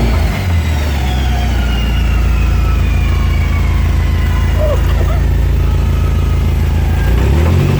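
Subaru GC8 Impreza under way, its flat-four engine running at a steady note that dips briefly and comes back near the end. Under it is a rattling from the drivetrain, the sign of a rear differential mount that moves too much.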